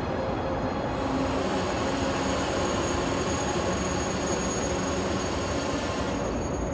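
High-speed train running along the station tracks: a steady rumble and hiss of wheels on rail with a steady electric hum. The hiss swells about a second in and eases near the end.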